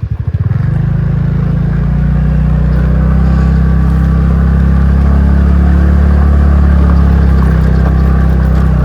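Motorcycle engine picking up revs just after the start, then running steadily as the bike is ridden.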